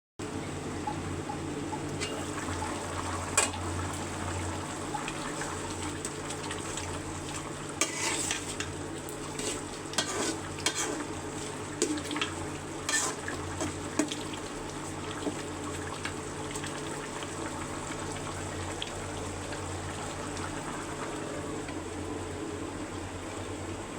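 Chicken curry sizzling in a cooking pot, with a spoon scraping and clinking against the pot as it is stirred several times in the first half. A low steady hum runs underneath.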